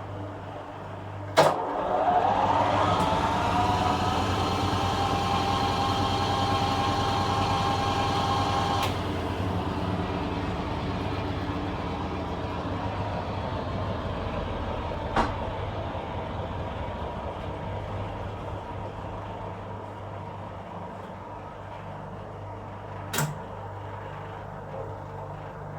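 1966 Bendix LA washing machine on its interim spin: a sharp click as the motor switches in, then a whine that rises and settles to a steady pitch for about seven seconds before cutting off. The drum then runs down over a low hum, with two more sharp clicks later on.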